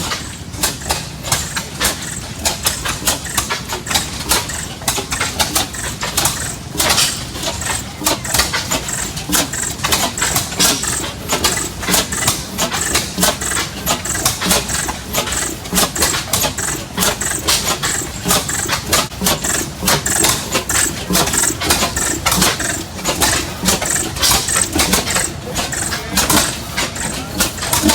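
Large antique stationary gas engines running, a steady rapid clatter of short beats.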